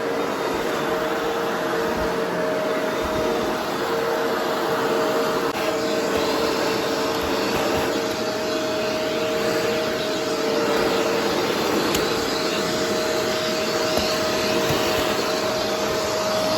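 Vacuum cleaner running steadily, a constant rush of air with a steady two-note hum from the motor.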